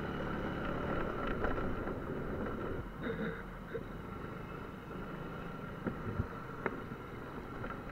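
Small motorcycle engine running steadily at low speed, with wind on the microphone and a few short clicks about six to seven seconds in.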